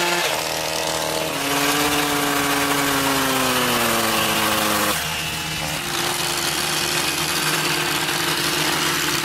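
Car engine and exhaust running. The engine note sinks gradually over a few seconds as the revs fall, then holds steady.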